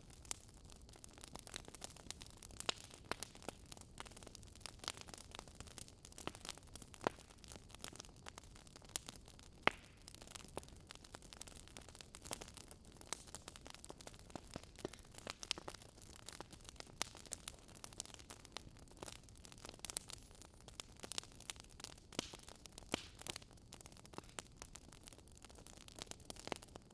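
Wood fire crackling faintly, with irregular sharp pops and snaps over a low steady hiss.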